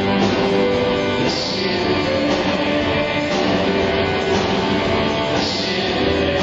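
Rock band music: electric guitars over a steady beat, with singing.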